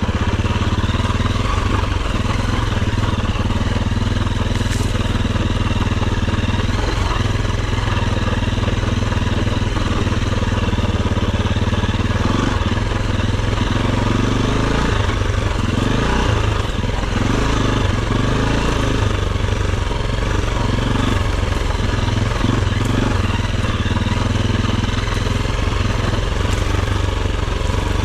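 Enduro dirt bike engine running at low, fairly steady revs, its pitch shifting up and down for a while around the middle.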